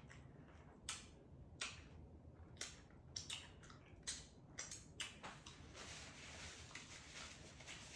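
Close-up eating sounds: a person chewing a taco, with irregular wet, crunchy mouth clicks and smacks.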